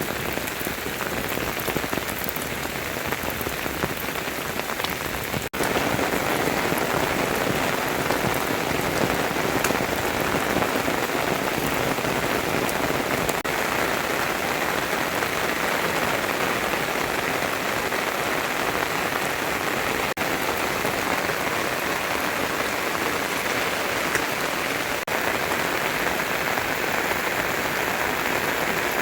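Steady rain falling, an even dense hiss of drops, which steps up a little louder about five seconds in.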